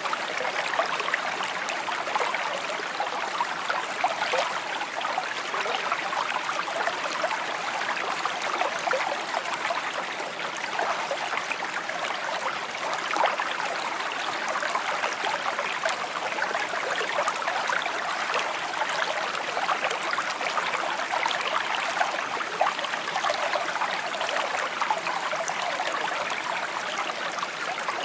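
A shallow stream babbling and trickling over stones, a steady bright rush of many small splashes.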